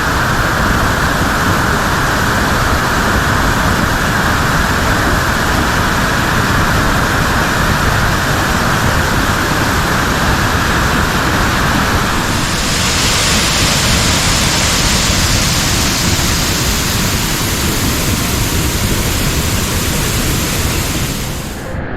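Waterfall and pouring rain: a steady rush of falling water that turns hissier about halfway through.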